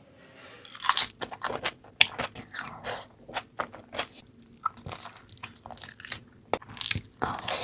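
Close-miked eating: crunchy bites and chewing, a run of sharp, irregular crunches, loudest about a second in, two seconds in and near the end.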